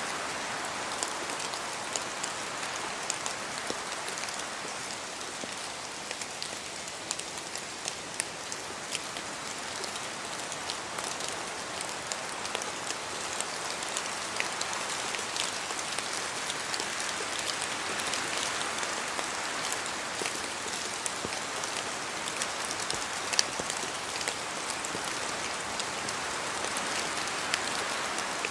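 Steady rain in a forest, drops falling from the trees: an even hiss dotted with many sharp single drop hits, one louder hit about 23 seconds in.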